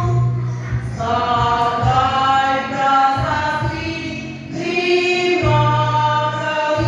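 A woman singing karaoke over a backing track, holding long notes and moving between them. A steady bass line runs underneath.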